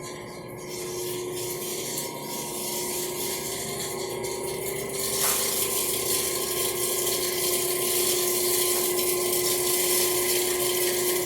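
Steady hum of mechanical-room equipment: one constant mid-pitched tone under a rushing hiss, which grows louder about five seconds in.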